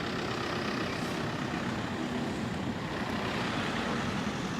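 A steady engine rumble with a constant noisy background.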